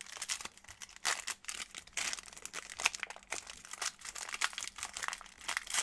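Plastic wrapping on a pack of trading cards crinkling and tearing as it is opened, in a rapid, irregular crackle.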